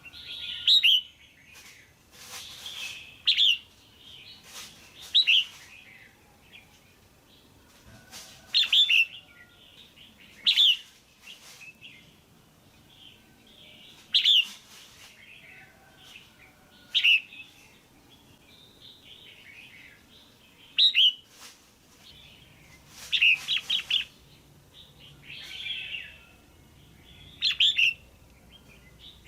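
Female red-whiskered bulbul calling: short, sharp chirping calls repeated every two to four seconds, with a quick run of three calls about three quarters of the way in. Bird keepers play this call to stir up a male bulbul or to pair birds.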